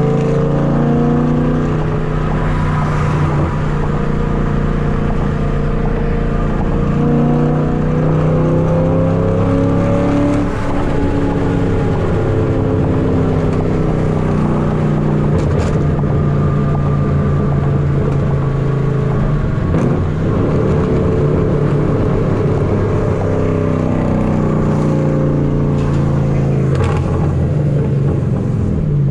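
5th-gen Camaro SS's LS3 V8 with long-tube headers and a loud exhaust, running steadily at cruise. Its pitch rises gently and then falls back as the throttle changes.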